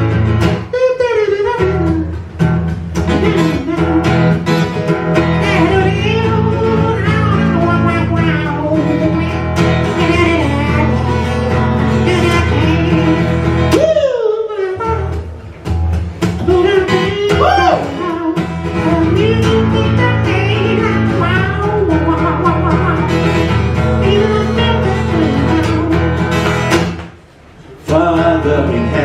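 Acoustic guitar playing a blues tune, with short breaks about halfway through and near the end.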